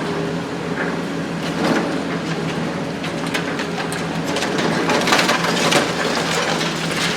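Concrete and rubble crunching and cracking as a high-rise is demolished, with many sharp crackles of breaking and falling debris that grow denser in the second half, over the steady drone of the long-front demolition excavator's engine.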